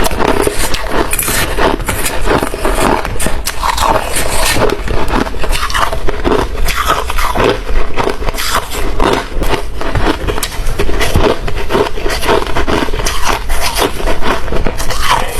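Hard ice being bitten and chewed: a dense, unbroken run of crunches and cracks, several a second.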